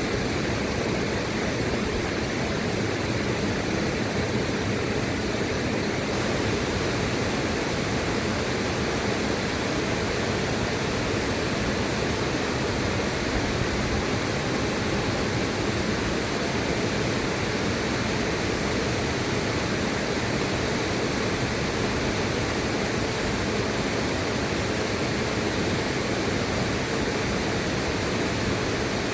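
River water rushing in a steady, even hiss with no breaks. The top of the hiss gets slightly brighter about six seconds in.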